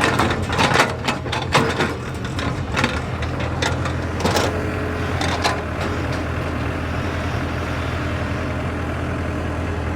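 JCB excavator's diesel engine running steadily, with a flurry of sharp knocks and clanks over the first couple of seconds and a few more at about four and five seconds in, then only the engine.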